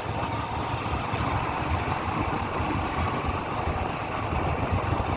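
Motorcycle engine running steadily under the rider.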